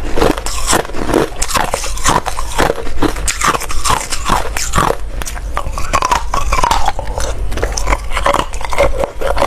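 A person biting and chewing ice, with repeated sharp crunches several times a second as the ice cracks between the teeth.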